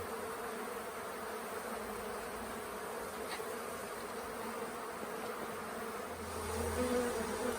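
A swarm of honey bees buzzing steadily in the air around a nuc box. The buzz swells briefly about six seconds in.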